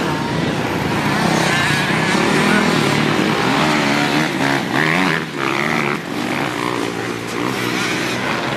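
Dirt bike engine running, its pitch rising and falling as the rider works the throttle.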